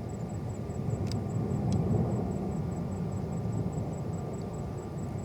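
Low, steady rumble of a distant jet airliner, swelling slightly about two seconds in.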